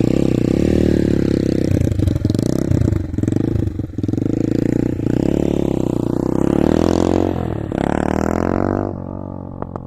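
Motorcycle engine of a Motorhead Scrambler 250 running with its exhaust silencer removed, open pipe, revved up and down with brief stumbles in the revs. It rises to a longer rev near the end, then drops back sharply about nine seconds in.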